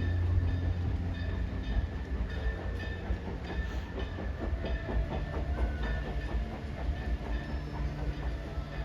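Steam train rolling along the track, heard from aboard a passenger car: a steady low rumble with rail clatter and a faint steady squeal.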